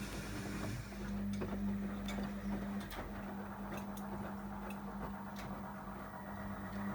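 Miele MedicWash W2585 washing machine running: a steady hum with a low rumble and a few scattered light clicks.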